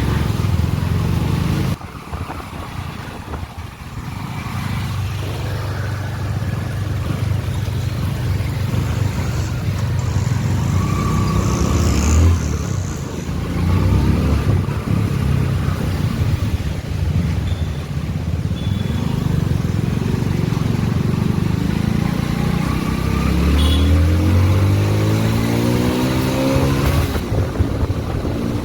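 Motorcycle engine running while riding. The note drops off about two seconds in and builds back, and near the end its pitch climbs steadily as it accelerates.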